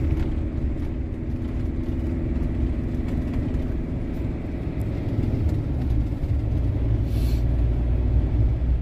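Steady low rumble of engine and road noise inside a camper van's cab while driving, with a short hiss about seven seconds in.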